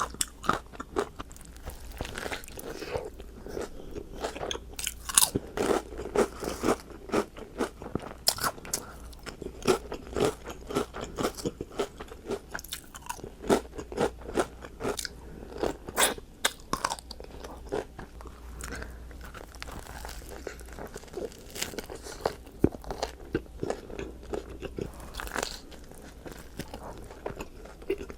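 Close-up eating sounds: a person biting and chewing crunchy food, with frequent irregular crunches that thin out after the first two-thirds.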